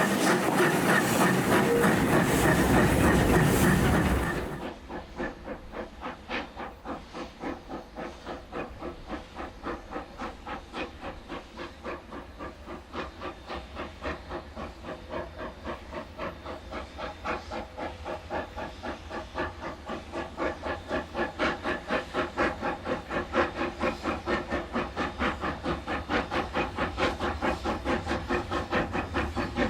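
Loud steady hiss of steam for the first few seconds, which cuts off suddenly. Then NZR Ww class steam tank locomotive Ww 480 working, its exhaust beats at an even rhythm that grows louder and slightly quicker toward the end.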